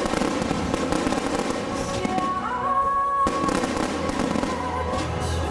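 Fireworks display going off, a dense, continuous crackle of many small bangs, with music playing underneath.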